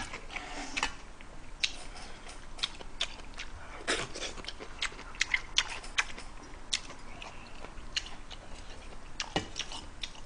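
Close-miked eating: chewing a mouthful of kimchi stew, with scattered sharp clicks from the mouth and from a metal spoon against the aluminium pot. The strongest clicks come about 4 s in and just after 9 s.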